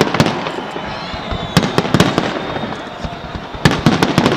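Aerial fireworks exploding: clusters of sharp bangs about every one and a half to two seconds over a continuous crackle.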